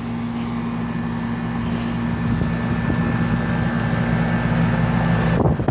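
Outdoor air-conditioner condenser unit running: a steady compressor hum under the rushing air of its three-bladed fan, growing slightly louder.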